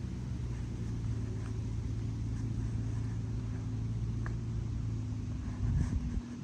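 A motor vehicle's engine running with a steady low hum, briefly louder near the end and then cutting off.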